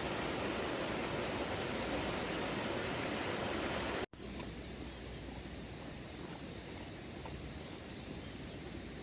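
Outdoor ambience with insects, crickets or cicadas, droning on one steady high note. About four seconds in the sound cuts out abruptly and returns quieter, with a steady insect drone at a lower pitch.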